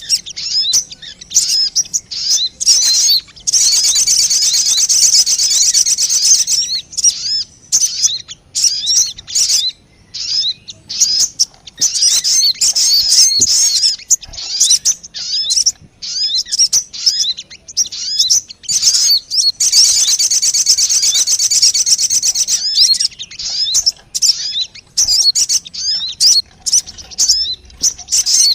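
Recorded song of the sogon bird used as a bird-trapping lure call: rapid, high-pitched chirps and short sliding notes. Twice it runs into long stretches of dense, fast twittering.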